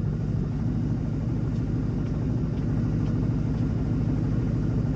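Ford Mustang's 4.6-litre V8 idling steadily, a low even rumble.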